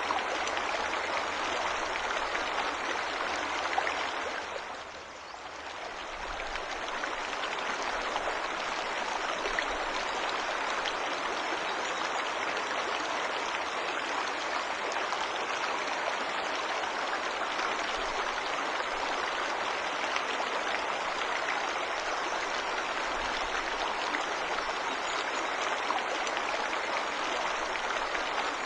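A waterfall's rushing water, a steady even rush that dips briefly about five seconds in.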